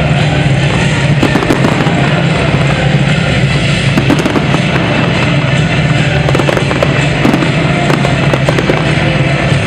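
Fireworks display: a dense, continuous barrage of crackling and popping shells with no let-up, with music playing underneath.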